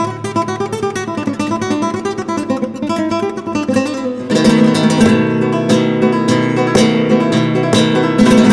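Flamenco-style acoustic guitar music: single picked notes at first, then about four seconds in the playing turns louder, with full strummed chords.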